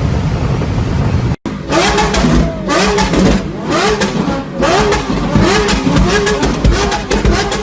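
Steady engine rumble, then a sudden cut to a car with a very loud exhaust revved over and over in quick throttle blips. Each blip rises and falls in pitch, and crackling pops come through the exhaust.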